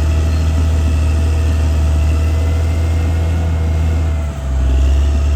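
CAT D6R bulldozer's diesel engine running with a steady low drone. A little after four seconds in there is a brief dip in level, and then the engine note shifts lower and louder.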